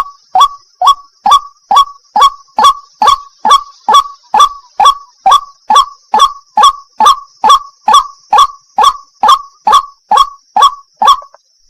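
White-breasted waterhen (wak-wak) calling a rapid, even series of short harsh notes, a little over two a second, which stop just before the end. A faint steady high hiss runs underneath.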